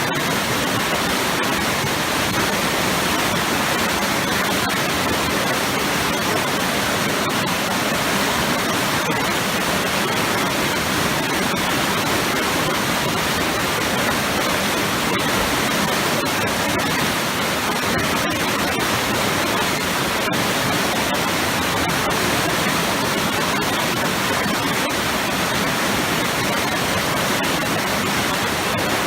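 A powerful waterfall pouring into churning, swirling water, making a steady, dense rush that never lets up.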